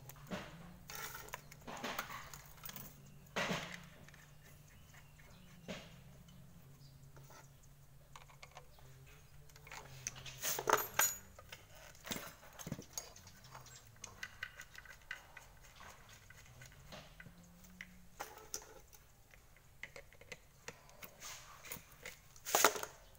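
Metal tools and parts clinking and knocking now and then during refrigerator compressor replacement work, with a louder flurry of clatter about ten seconds in. A faint low hum runs underneath and fades out near the end.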